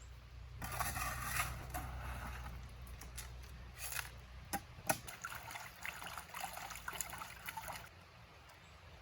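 River water trickling and sloshing, with a low steady hum underneath from about half a second in until near the end, and a few sharp clicks around four to five seconds in.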